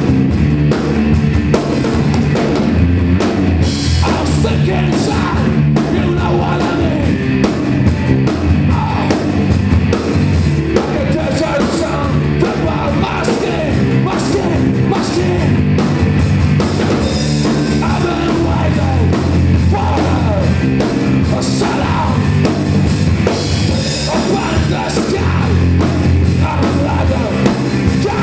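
Rock band playing live: drum kit, bass and guitars keep up a loud, steady rock beat, with a voice singing over it.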